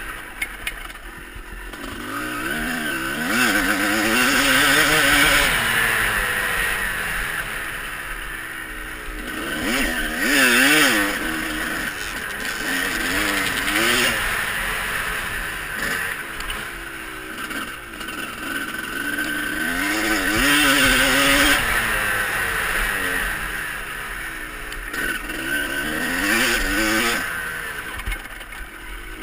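Motocross bikes running around a dirt track, engines revving up and falling back again and again through gear changes. The sound swells loud as bikes pass close, several times, then drops away between passes.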